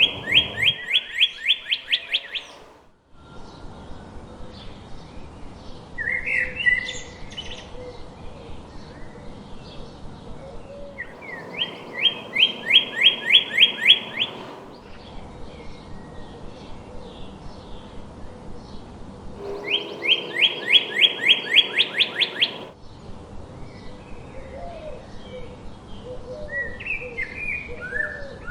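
Songbirds singing: one bird repeats a loud phrase of rapid, evenly spaced whistled notes, about five a second for some three seconds, three times, while other birds chirp more quietly in between.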